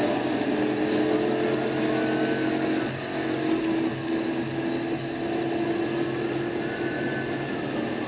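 Police patrol car in a high-speed pursuit: steady engine and road noise, with a siren wailing up and down in repeated sweeps.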